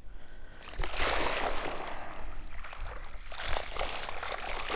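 Water splashing and pouring off as a net holding live crucian carp is lifted out of the river. It starts about a second in, with many quick splashes.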